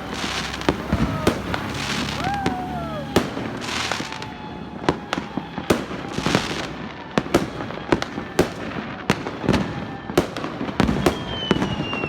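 Many fireworks going off at once: a dense, irregular string of sharp bangs and crackles, with a short whistle gliding up and then down about two seconds in.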